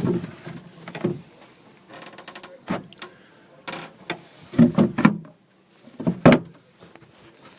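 A series of knocks and thumps of things being handled, with a brief rattle about two seconds in; the loudest hits come around five and six seconds in.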